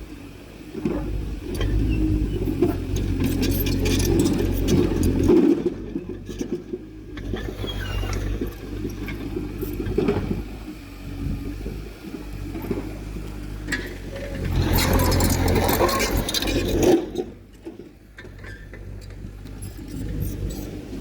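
Heavy earthmoving machinery's diesel engine running, growing louder and dropping back twice, with metallic clanking and scraping over it.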